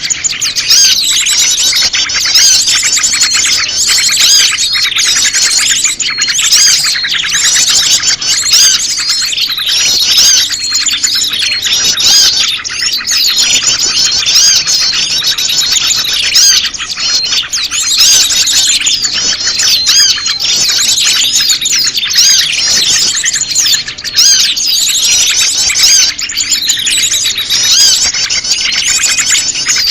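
Bird-lure recording of prenjak lumut calls mixed with a chorus of many small birds: dense, unbroken high-pitched chirping and twittering.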